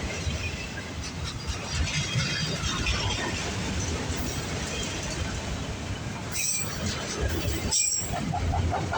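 Freight train of autorack cars rolling past: a steady rumble and rattle of steel wheels on the rails, with brief high wheel squeals.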